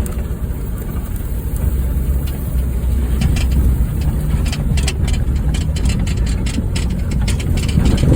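Honda Fit driving fast along a rough dirt road: a steady low rumble of engine and road noise, with frequent clicks and knocks from about three seconds in as the car goes over the bumps.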